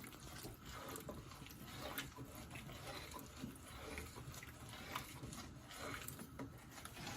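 Spoon stirring thick stew in a pot: faint, irregular scraping and squelching of the liquid.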